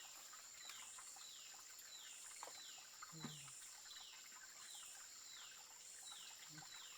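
Faint forest ambience: a high call that falls in pitch, repeating at an even pace about three times every two seconds over a steady high-pitched whine, with two brief soft low sounds about three seconds in and near the end.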